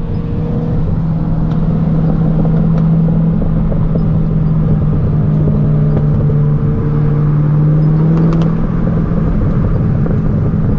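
Car engine droning steadily while cruising, its pitch holding nearly level, with faint slow rising tones now and then.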